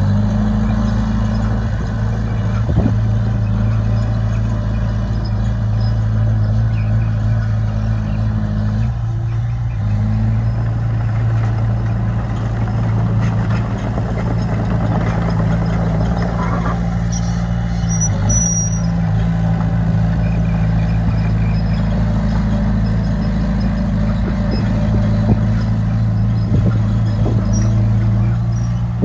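Heavy diesel engine of a bulldozer running steadily, its note dipping briefly about nine seconds in and then picking back up.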